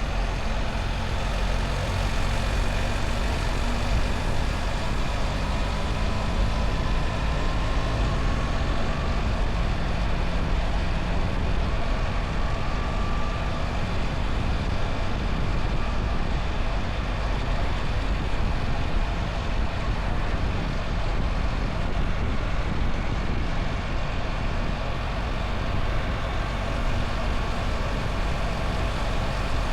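BMW R1300 GS motorcycle's boxer-twin engine running under way at a steady pace, mixed with a steady rush of noise.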